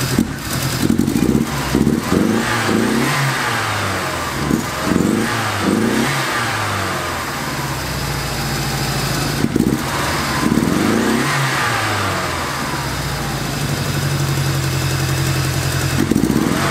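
1987 Dodge Charger Shelby's turbocharged 2.2-litre four-cylinder running just after being started. The throttle is blipped repeatedly in short revs, with a steadier stretch in the second half. The engine is down on power, which the owner takes for a miss.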